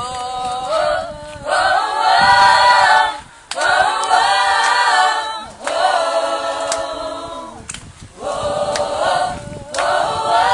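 A group of people singing together unaccompanied, in sustained phrases of a second or two each with short breaks between them.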